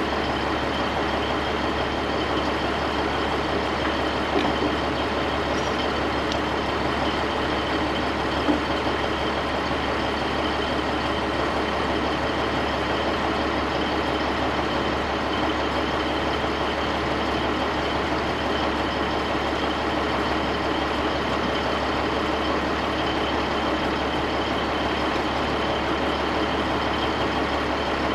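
Heavy truck running at a steady speed: an even, unchanging drone of engine and road noise, with a couple of faint clicks.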